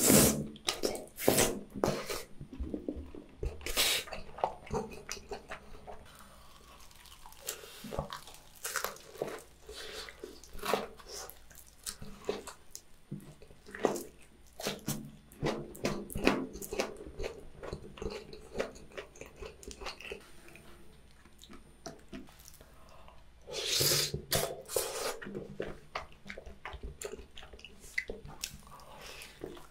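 Close-miked chewing and biting of spicy tteokbokki rice cakes and fried chicken legs: wet, sticky mouth sounds with sharp crunches. It is louder in the first few seconds and again a few seconds before the end.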